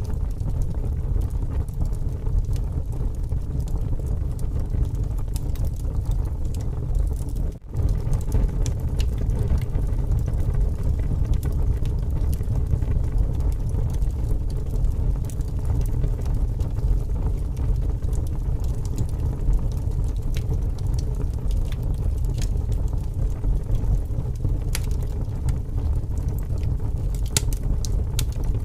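Wood fire burning with scattered crackles and pops over a steady low rumble of strong wind. The sound drops out for a split second about eight seconds in.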